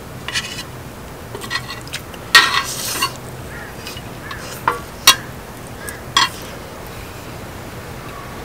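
Eating utensils clinking and scraping against a dish: scattered short knocks, with a longer scrape a little over two seconds in and sharp clicks around five and six seconds.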